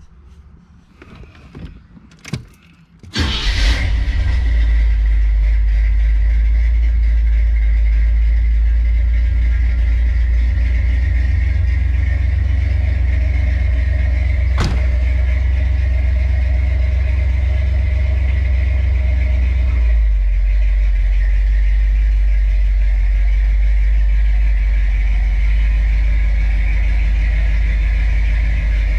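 A C3 Corvette's V8 engine is started about three seconds in, after a few knocks, and then runs steadily at idle with a heavy low rumble. There is one sharp click about halfway through.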